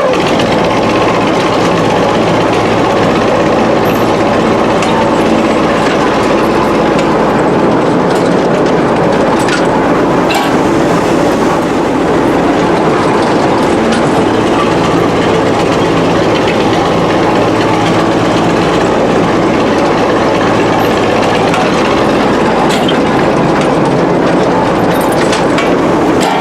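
Big vintage power shovel's engine running loudly and steadily close by, with a low hum and an even mechanical clatter.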